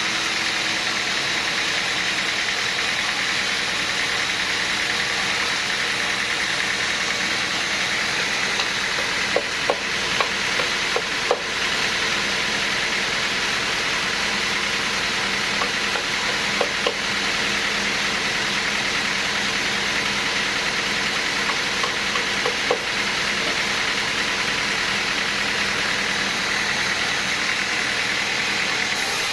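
Machinery running steadily with a constant whine, broken by a few short clusters of sharp clicks about ten, seventeen and twenty-three seconds in.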